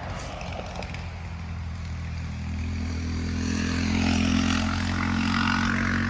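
A passing engine: a steady low drone with several pitched tones, growing louder to a peak about four seconds in.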